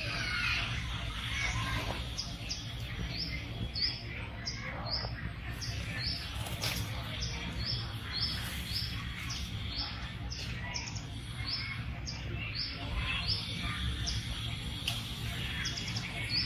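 A bird repeating a short, high chirp about twice a second, over a steady low outdoor background.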